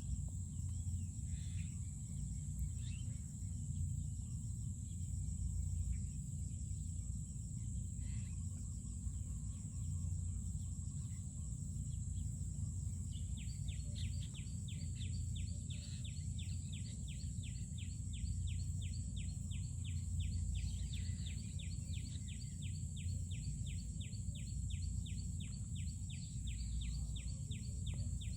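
Outdoor ambience: a steady low rumble under a steady high hiss, joined about halfway through by a fast, even run of high ticking chirps.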